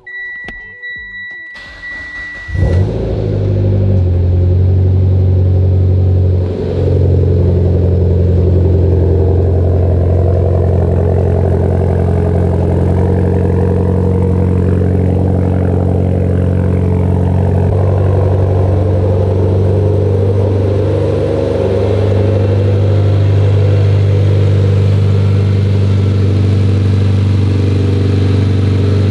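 A high electronic beep for the first two seconds or so, then the Mitsubishi Evo X's turbocharged 2.0-litre four-cylinder starts suddenly and idles steadily. This is its first start after a new turbo, intercooler, piping and intake have been fitted.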